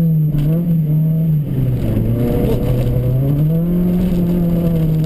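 Rally car engine heard from inside the cabin at stage speed. Its note drops for about a second around two seconds in, then climbs back up and holds.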